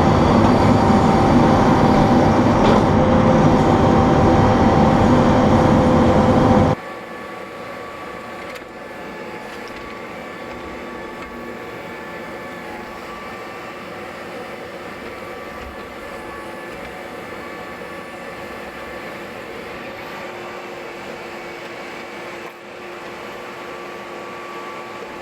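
Heavy machine engine running steadily and loud, then dropping abruptly about seven seconds in to a much quieter, steady engine hum with a few held tones.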